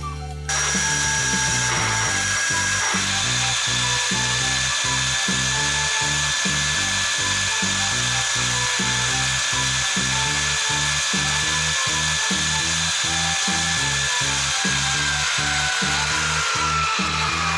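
A power tool runs steadily with a high whine, and its pitch starts to drop near the end. It plays over background music with a steady beat.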